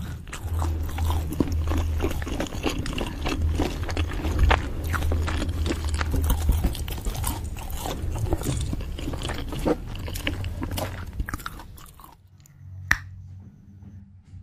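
Close-up crunching and chewing of crispy semolina-coated fried small fish: many quick, irregular crackling bites over a low steady hum. The chewing stops about two seconds before the end, and a single sharp click follows.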